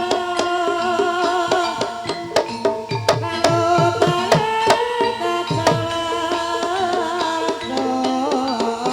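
Javanese gamelan music accompanying an ebeg dance: steady pitched tones over a rhythm of hand-played kendang drum strokes, the deep strokes bending down in pitch.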